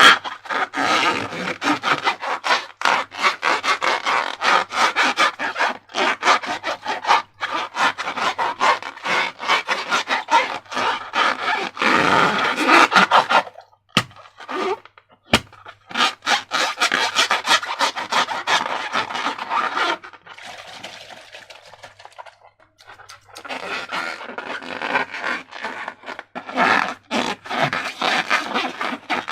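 Slime being worked and squished by hand: a rapid run of sticky squelching and crackling clicks. About halfway through it pauses, with two sharp clicks, and a little later it goes softer for a few seconds before picking up again.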